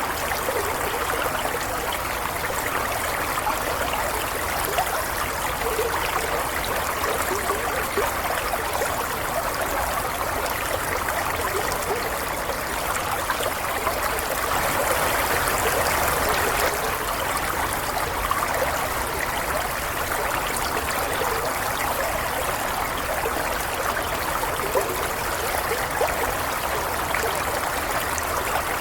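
Stream water flowing steadily, a continuous rush with fine trickling detail, briefly a little louder about halfway through.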